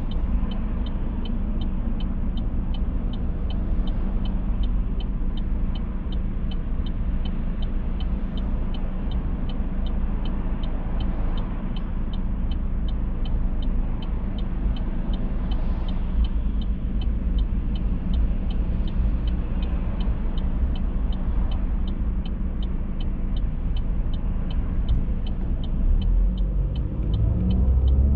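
Car driving on the road, with a steady low rumble of tyres and engine and a faint, fast, regular high ticking over it. The low rumble swells near the end.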